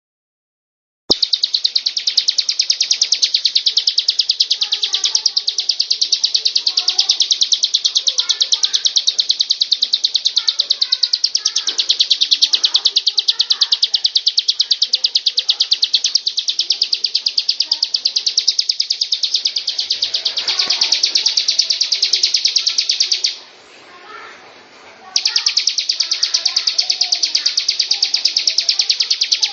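Bar-winged prinia singing: a fast, unbroken run of high, sharp notes that stops for about two seconds near the end and then starts again. Fainter, lower chirping runs underneath.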